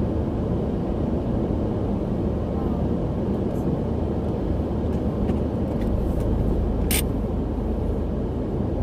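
Steady low rumble of a car's engine and road noise heard from inside the cabin, growing deeper about six seconds in, with a single sharp click about seven seconds in.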